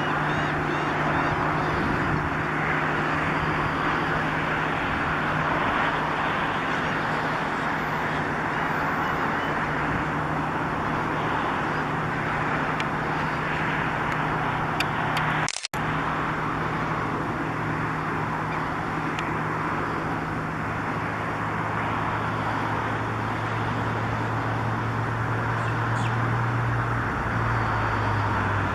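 Steady rushing background noise with a low engine hum under it, the hum dropping lower in pitch near the end. The sound cuts out for a split second about halfway.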